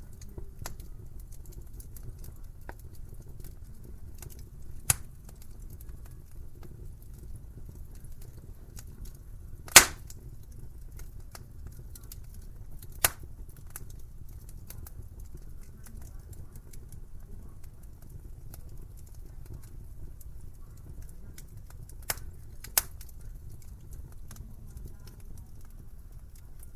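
Wood fire crackling in a fireplace: a steady low rumble of the flames with faint small crackles, and five sharp pops from the burning wood, the loudest about ten seconds in and two close together near the end.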